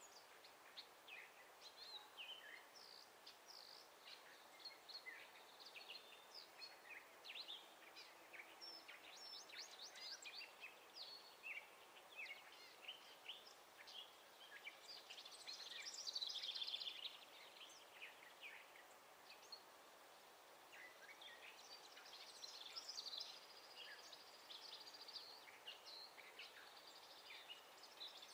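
Several wild songbirds chirping and calling, faint, with many short high notes throughout. A louder rapid trill comes a little past halfway, and another near the end.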